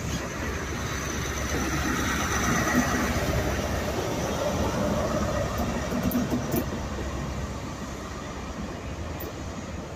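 Passenger train pulling out past the platform: a steady rumble of wheels on rails and rolling carriages, loudest in the middle and fading as the train moves away.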